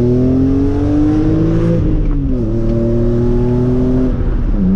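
BMW E46 M3's S54 straight-six, through a Megan Racing axle-back exhaust, pulling hard under acceleration. The revs climb, fall sharply at a gear shift about two seconds in, climb again, then drop off near the end.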